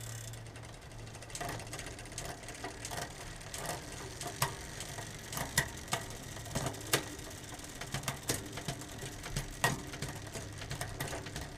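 Chain running through a 10-speed Shimano Ultegra rear derailleur and cassette as the cranks are turned by hand, with sharp clicks about every second and a half as the chain shifts from sprocket to sprocket. The shifts onto the smaller sprockets are a little slow: a sign that the gear cable is now slightly too tight.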